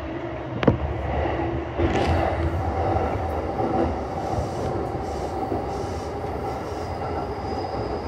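Keihin-Tohoku line E233-series commuter train running, heard from inside the car: a steady low rumble of wheels on rail with a faint hum and a sharp click about a second in.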